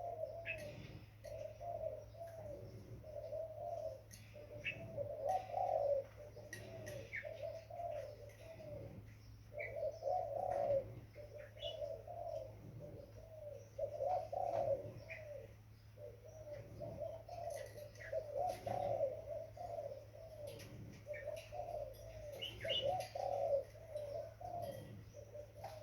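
Young spotted dove cooing repeatedly in short runs of soft coos, with scattered brief high chirps and a steady low hum underneath.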